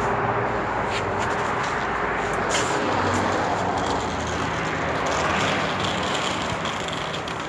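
A steady engine or motor drone with a low hum and background noise, and a few faint clicks.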